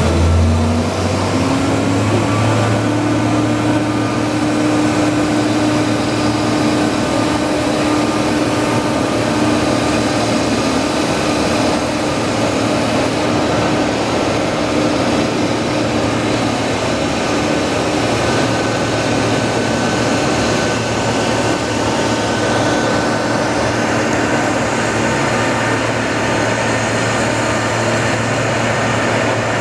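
Steady, loud aircraft ramp noise around a parked Boeing 777: an even rushing noise with a low hum and a thin high whine held throughout.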